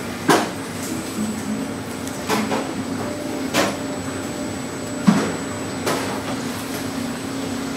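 Crispy fried chicken being bitten and chewed: a few short sharp crunches, the first just after the start, over a steady low hum.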